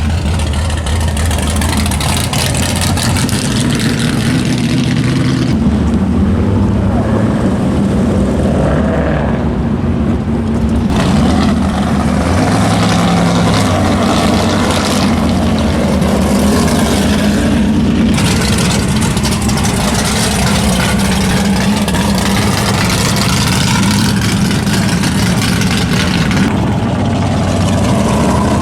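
Car engines running and idling, steady and loud, with the pitch stepping up and down now and then as throttles are blipped.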